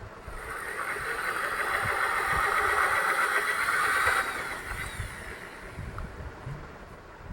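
A passing vehicle: a rushing noise that swells over about four seconds and then fades away, over low thumps of wind on the microphone.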